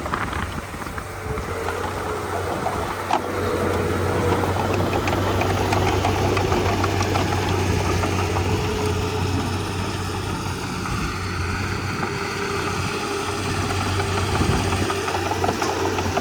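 Komatsu D31P crawler bulldozer's diesel engine running steadily at work, with a few scattered clanks.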